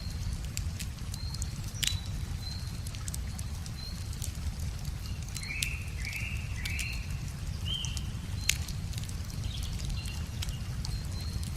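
Wood fire crackling with scattered sharp pops, the loudest about two seconds in and near the end, while birds chirp in short repeated notes, over a steady low rush.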